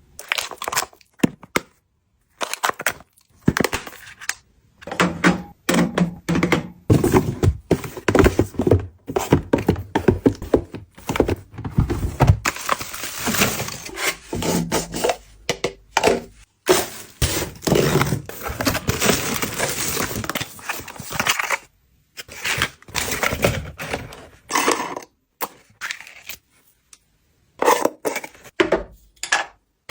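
Items and packaging being handled and unpacked: a busy run of short knocks, taps and scrapes, broken several times by sudden gaps of silence.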